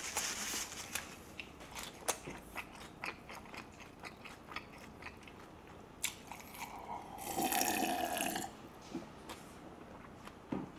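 Close-up chewing of roast chicken, with many small wet mouth clicks and smacks. About seven seconds in, a drink from a glass is gulped down, a louder stretch lasting about a second and a half, then the chewing clicks go on.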